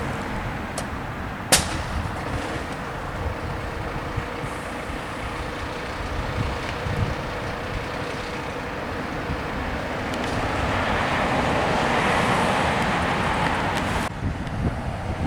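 Fire ladder truck's engine and road noise as it moves off, with a sharp click about a second and a half in. The engine noise swells over several seconds near the end, then cuts off abruptly.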